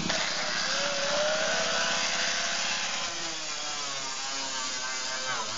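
Power tool cutting along the edge of a car door's sheet metal, running steadily, its whine dipping briefly in pitch near the end.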